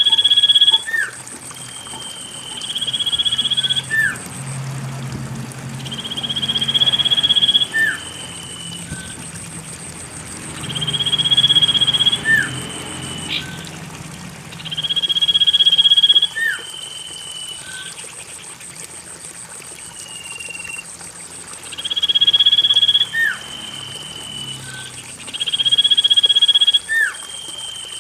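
Common iora (cipoh) song used as a lure recording: a long, swelling whistle repeated every three to four seconds, each with a short hooked note.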